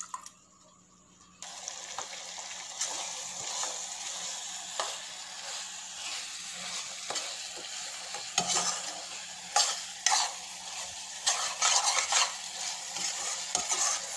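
Onion-tomato masala sizzling in a wok while a perforated steel spoon stirs and scrapes it. The sizzle comes in about a second and a half in, and the scraping strokes grow louder and more frequent in the second half. The spices are being fried until the oil separates.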